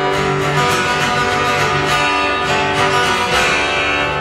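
Guitar strumming steady chords: the instrumental introduction to a children's song.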